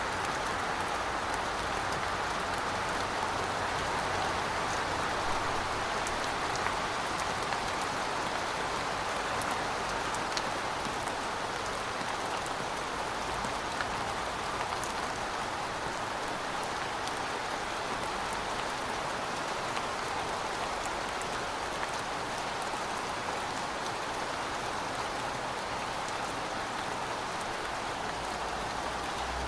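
Steady heavy rain falling, with a constant hiss and scattered individual drops ticking through it. No thunder is heard.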